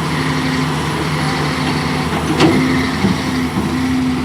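Excavator's diesel engine running steadily under load while spreading and levelling laterite soil, with a single clank from the machine about halfway through.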